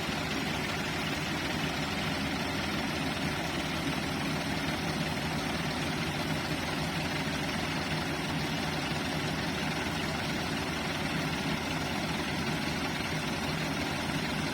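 Ford tractor diesel engines running steadily under heavy load while hauling a loaded trolley stuck in wet sand.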